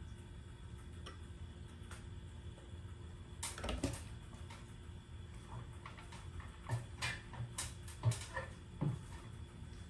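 Metal parts clinking and knocking as they are handled during a garage door installation: a short cluster about three and a half seconds in, then a run of separate knocks near the end, over a steady low hum.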